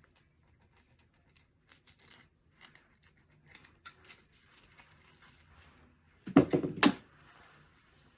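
Fabric and packaging being handled with faint rustles and small clicks, then a loud ripping burst lasting about half a second, fabric being torn into a strip for tying.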